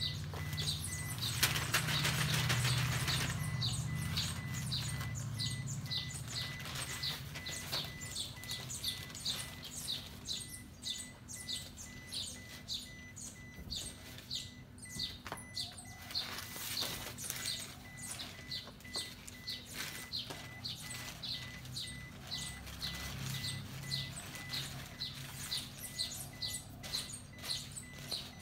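A bird chirping over and over, a short high chirp every half second or so, with paper rustling loudly about two seconds in and again around the middle.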